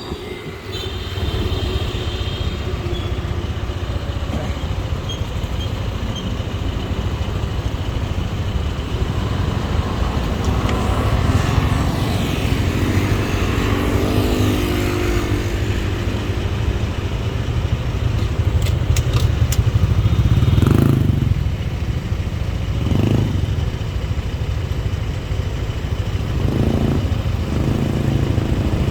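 Motorbike riding through city traffic, its engine running under a steady low rumble of wind and road. The engine note briefly rises several times in the second half.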